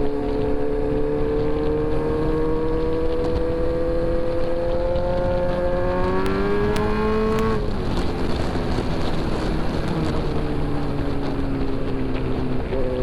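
Kawasaki Z900 inline-four engine pulling under way. Its pitch climbs steadily, rises faster about six seconds in, drops suddenly about seven and a half seconds in, then settles lower and eases slowly down, over steady road and wind noise.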